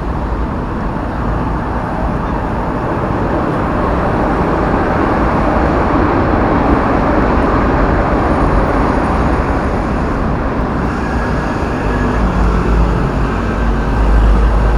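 Heavy road traffic passing close by on a multi-lane highway, a steady wash of engine and tyre noise over a deep rumble that grows louder near the end.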